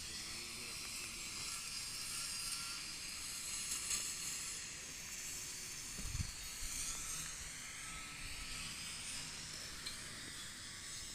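A faint, steady hiss of outdoor ambience, with a brief low thump about six seconds in.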